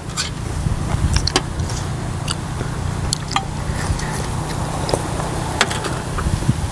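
Close-up eating sounds: short wet clicks and lip smacks of people chewing a soupy curry, scattered irregularly over a steady low rumble.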